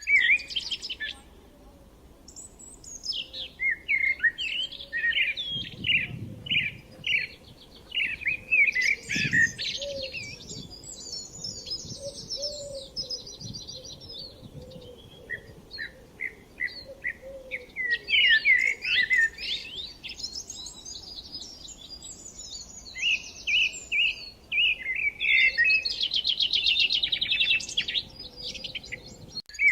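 Songbirds singing and calling: a busy run of short repeated chirps and fast trills, with a few brief pauses.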